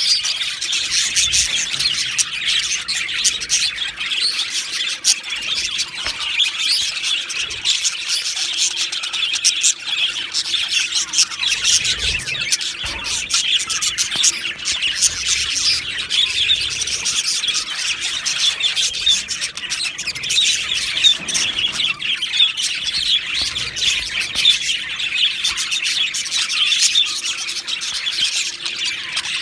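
Male budgerigars chattering and warbling without a break: a dense stream of quick, high chirps and squawks.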